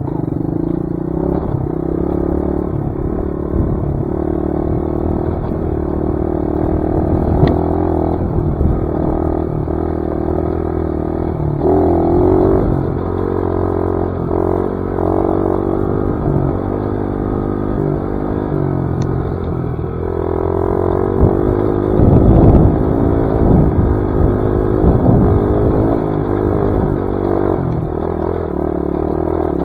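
Dirt bike engine running as the bike is ridden along a trail, its pitch shifting with the throttle. A cluster of low thumps and clatter comes about three-quarters through as the bike goes over rough ground.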